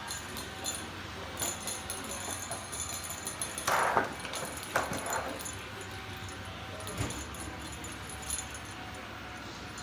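Robot vacuum running with a steady hum, with scattered light clicks and jingling and two brief scuffing bursts about four and five seconds in.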